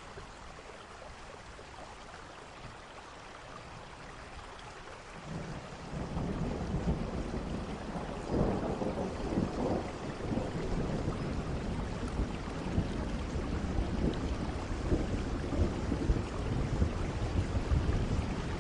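Steady rain falling, with thunder rumbling in from about five seconds in as the storm grows louder and heavier.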